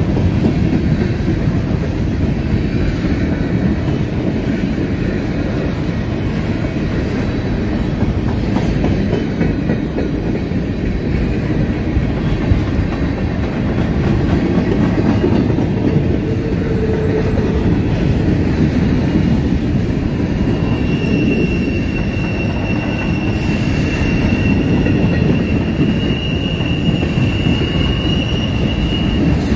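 Freight train of covered hoppers, boxcars and tank cars rolling past close by: a steady, loud noise of steel wheels on rail. About two-thirds of the way in, a thin high wheel squeal joins it and holds until near the end.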